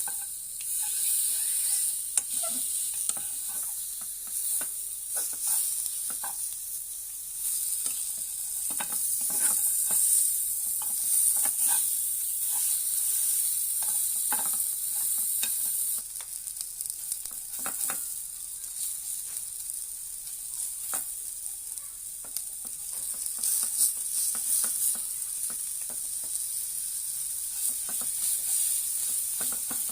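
Ribs sizzling steadily in a hot pan, with scattered clicks and scrapes as they are turned and stirred.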